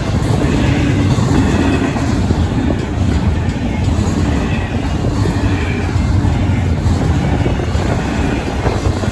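Double-stack intermodal freight cars rolling past at a level crossing: a steady, loud rumble of wheels on rail. The crossing bells ring faintly under it, as they do through the whole time the gates are down.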